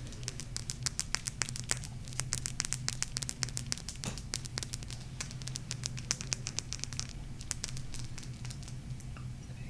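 Fingernails tapping and scratching on a golden crystal close to the microphone: rapid crisp clicks, several a second, thinning out near the end.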